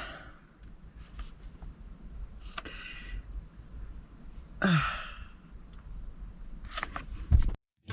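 Quiet handling rustles with two short, breathy exhalations like sighs, then a few clicks near the end before the sound cuts off abruptly.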